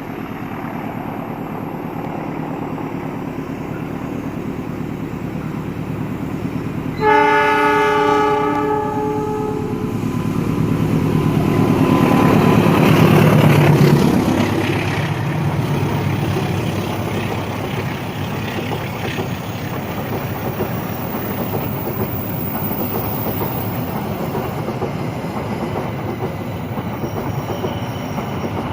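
Indonesian diesel locomotive passing with its train: a horn chord about two and a half seconds long sounds roughly a quarter of the way in. The rumble grows loudest a few seconds later as the locomotive goes by, then the steady rumble of the carriages' wheels on the rails runs on.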